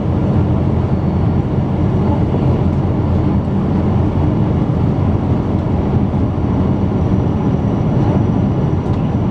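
Steady cabin noise inside a Boeing 777-200 airliner: a loud, even rumble of the jet engines and rushing air with no change in level.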